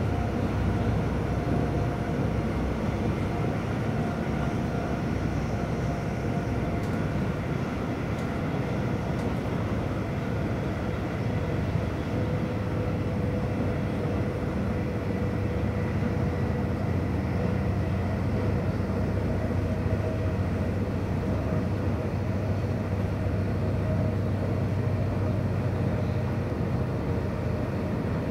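Cabin running noise of a Stadler FLIRT electric multiple unit at speed: a steady rumble of wheels on rail, with a few faint steady whining tones over it.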